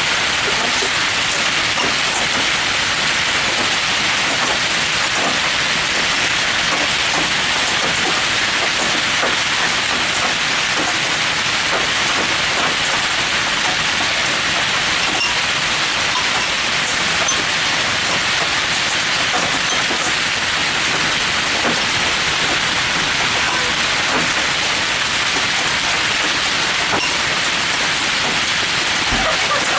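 Heavy rain and hail in a severe thunderstorm, beating down without letup: a dense, even hiss with scattered small ticks from individual hits.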